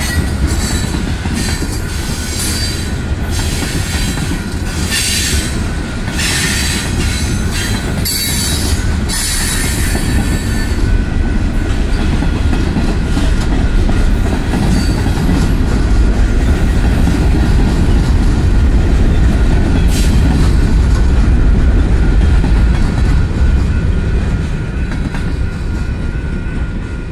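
Freight train of tank cars and covered hoppers rolling past close by, with a heavy low rumble and wheels clattering over the rails. Repeated high-pitched wheel squeal comes and goes through roughly the first ten seconds. The sound eases off near the end as the last car clears.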